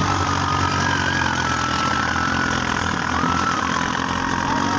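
Diesel tractor engine running steadily under load while hauling a container trailer up a slope, with a thin wavering high whine above it.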